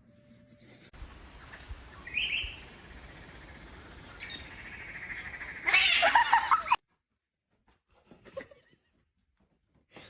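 Animal calls over a steady hiss: a short high chirp about two seconds in, a fainter one near four seconds, and a louder cry near six seconds that cuts off suddenly.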